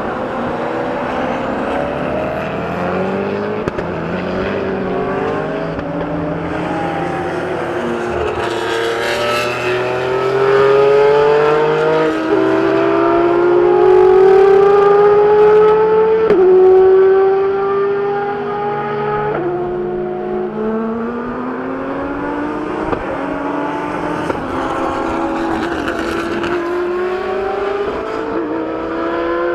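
Supercar engine accelerating hard through the gears: its pitch climbs steadily and drops sharply at upshifts about 12, 16 and 19 seconds in, loudest in the middle.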